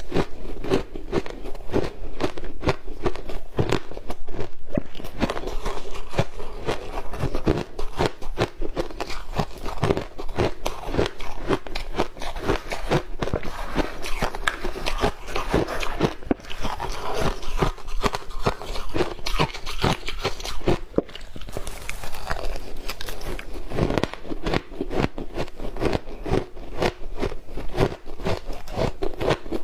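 Matcha powder ice being bitten and chewed close to the microphone: a dense, unbroken run of crisp crunches, several a second.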